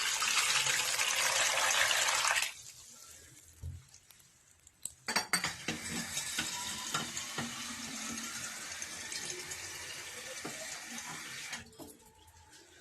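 Water being poured onto salted cut lemons in a container for preserving, in two pours: a short heavy one, then after a pause and a knock a longer pour whose pitch rises faintly as the container fills.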